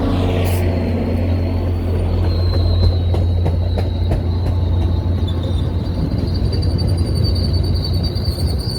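MBTA commuter train passing with a steady low rumble. A thin, high wheel squeal comes in about two seconds in and holds on.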